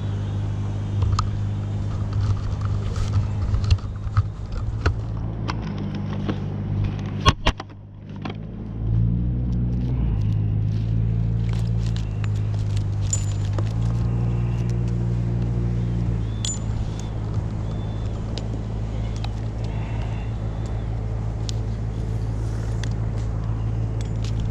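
An engine running at a steady low speed, dropping away briefly about seven and a half seconds in and picking up again a second later, with small shifts in pitch. Scattered sharp clicks and light metallic jingles sound over it.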